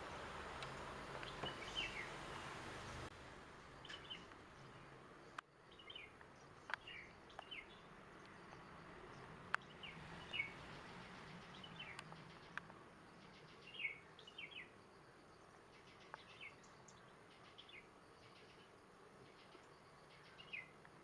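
Faint, short chirps from small birds, coming every second or so, over a low background hiss that drops away about three seconds in.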